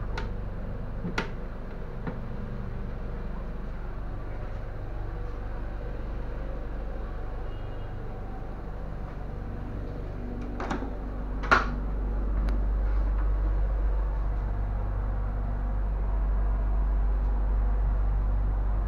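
Steady low rumble of a moving passenger train coach, heard from inside its washroom, growing louder about twelve seconds in. A few sharp knocks cut through it, the loudest about eleven and a half seconds in.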